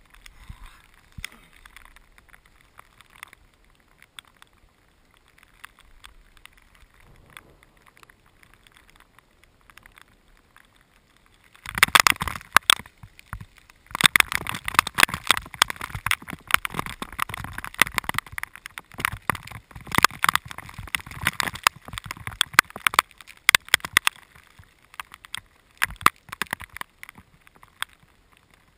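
Rain falling in a thunderstorm, with drops striking right at the microphone as dense sharp taps. It starts suddenly and heavily about twelve seconds in, after only scattered drips, and thins out toward the end.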